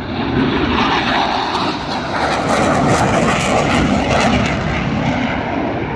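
Jet aircraft passing overhead: a loud engine rush that builds to its peak in the middle and fades away near the end.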